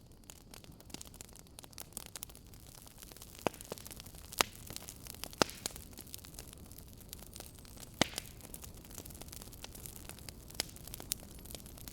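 Wood fire crackling: irregular snaps and pops, a few louder ones, over a steady hiss.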